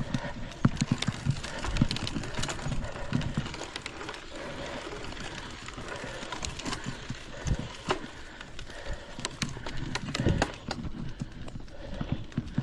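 Irregular footsteps and knocks of a hiker walking a forest trail, many uneven clicks and thuds over a rustle.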